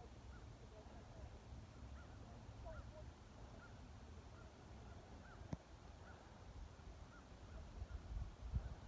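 Faint bird calls, short arched chirps repeating over a low wind rumble, with a sharp click about halfway and a few low thumps near the end.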